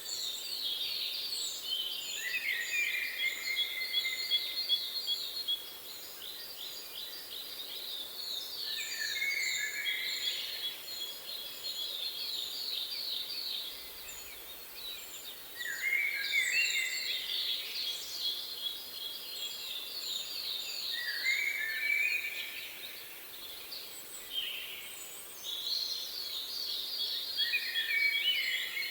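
Songbirds singing: fast repeated trills and short falling phrases, with thin high notes above, coming in bouts every few seconds. A faint steady hiss lies underneath.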